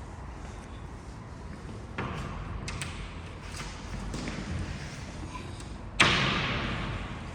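Two knocks over a low steady rumble: a softer one about two seconds in and a loud, sharp one about six seconds in that rings away over about a second.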